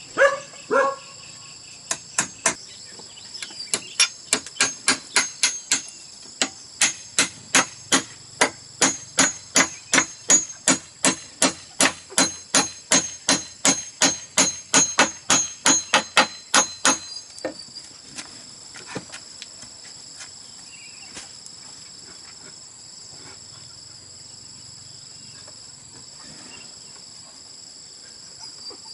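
A hammer striking bamboo in an even run of sharp blows, about two to three a second, which stops about two-thirds of the way through, leaving only a few faint knocks. A dog barks twice at the very start, and insects keep up a steady high drone throughout.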